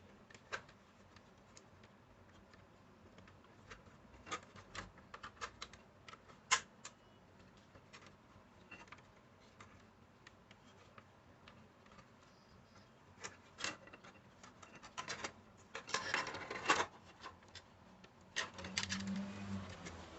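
Hands working on an old radio with small tools and parts: scattered light clicks and taps, a short burst of scraping about two-thirds of the way through, and rubbing near the end.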